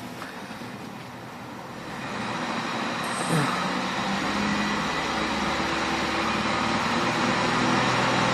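The 2003 Chevrolet Venture's 3.4-litre V6 idling steadily, its sound growing louder from about two seconds in and then holding. A brief falling tone is heard about three seconds in.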